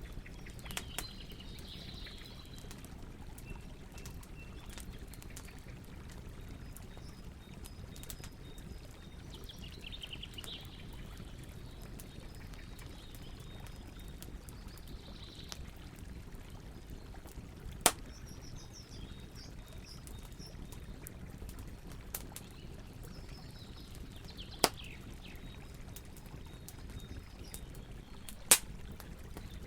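Campfire burning with a steady low rumble and small crackles, and three loud sharp pops in the second half. Birds chirp now and then.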